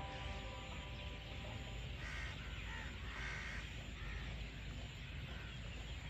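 A bird calling twice, short calls about a second apart, over steady outdoor background noise.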